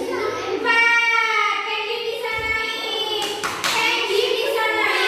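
Children's voices singing together, with a short run of hand claps a little over three seconds in.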